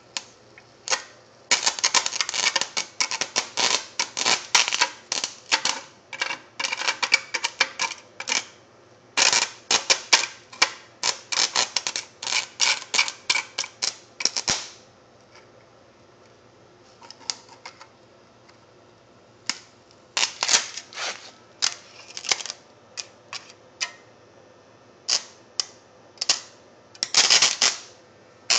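Sputtering crackle of electric arcing as the leads of a rewound microwave-oven transformer's high-current secondary make and break contact with metal. Dense, irregular snapping for much of the first half, a short lull, then shorter bursts.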